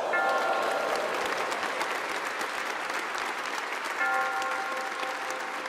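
Studio audience applauding steadily, with sustained music chords over the clapping at the start and again about four seconds in.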